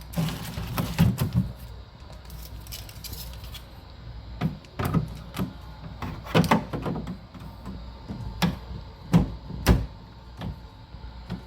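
Irregular knocks, clicks and rattles of the air cooler's plastic parts being handled, including the filter and panels, with a faint steady low hum underneath.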